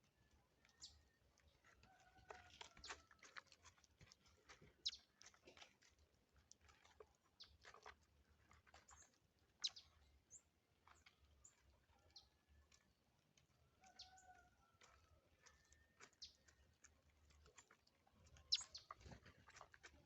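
Faint bird calls and chirps, with many short sharp ticks scattered through.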